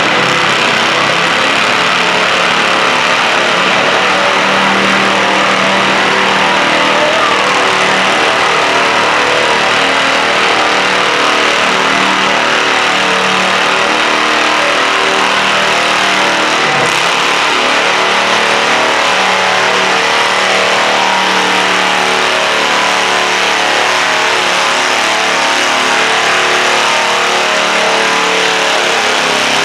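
Stock altered pulling garden tractor's engine running hard at high revs under load, loud and unbroken for about half a minute, its pitch wavering slightly as it pulls.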